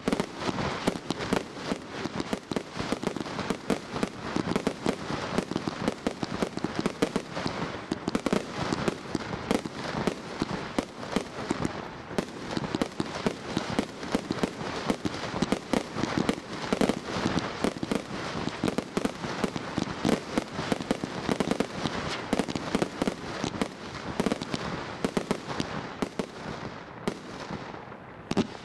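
A professional category 4 firework firing a long, rapid run of shots and bursts, bang after bang with crackle between, thinning out a little near the end.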